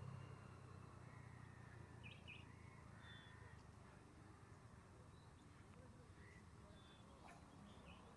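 Near silence: faint outdoor background with a few faint, short bird calls, a cluster about two to three seconds in and more near the end.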